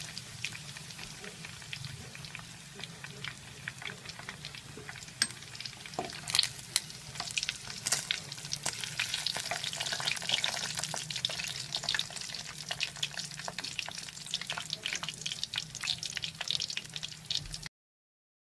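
Marinated chicken pieces frying in hot oil: a steady sizzle with frequent crackling pops, while a spatula stirs and turns them in the pan. The sound cuts off suddenly near the end.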